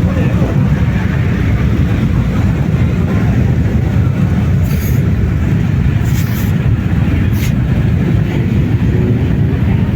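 Steady low rumble of motorcycle engines, with three short high ticks in the middle.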